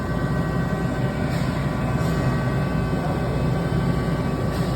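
Steady low mechanical hum and rumble of running machinery, with a few faint steady whining tones above it.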